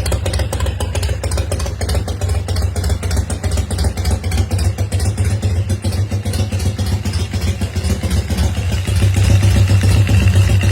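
Harley-Davidson Evolution V-twin on a 2011 chopper, idling steadily with a rapid, even pulse, getting a little louder near the end.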